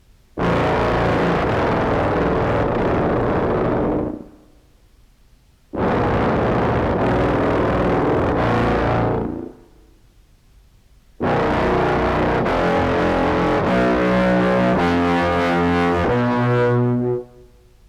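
Contrabass clarinet played through an EHX POG2 octave pedal set one and two octaves down into a Behringer Brassmaster fuzz, giving a thick, distorted tone. Three long held notes with short gaps between them; the last steps through several pitches.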